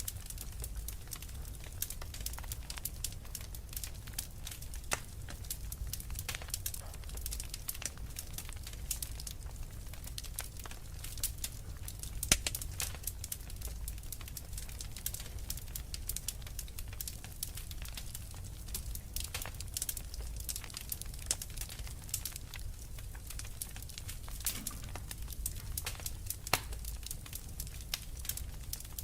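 Wood fire crackling in a fireplace: frequent irregular snaps and pops over a low steady rumble, with one louder pop about twelve seconds in.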